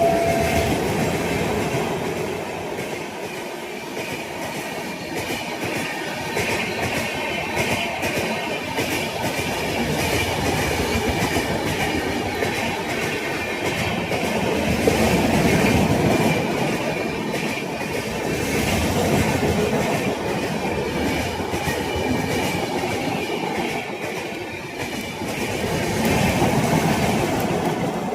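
Indian Railways train running past at speed: a continuous rumble and clatter of wheels over the rails that swells and fades every few seconds. The tail of a horn blast cuts off in the first half second.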